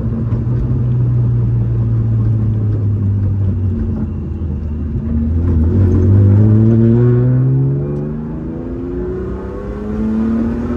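BMW engine running through a homemade straight-pipe exhaust of fence tubing, the muffler removed and the catalytic converter still fitted. The note holds steady for about four seconds, climbs as the car accelerates, drops back about eight seconds in, then climbs again near the end.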